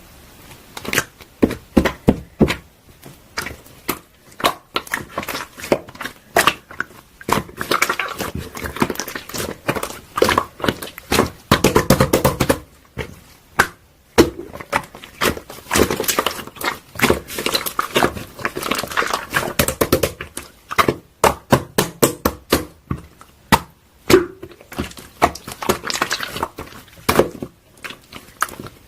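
Close-up, rapid, irregular clicks, pops and crackles, some in quick clusters, with short rustling stretches between them.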